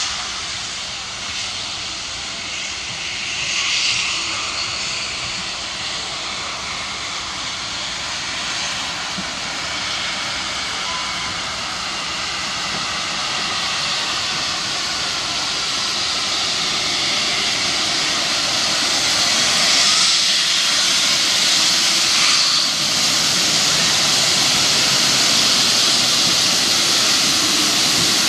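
Steam locomotive letting off steam: a steady hiss that grows louder over the second half.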